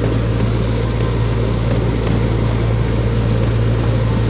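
Park excursion train running steadily, heard from aboard an open passenger car: a constant low engine hum with rumbling running noise over it.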